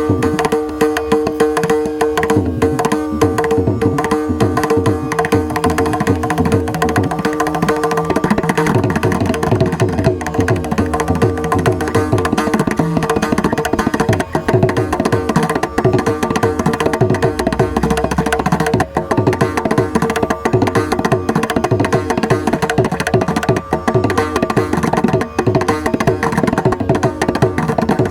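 Mridangam played solo in fast, dense strokes, a Carnatic rhythm pattern that runs on without a break. For about the first eight seconds a steady held tone sounds under the strokes, then drops away.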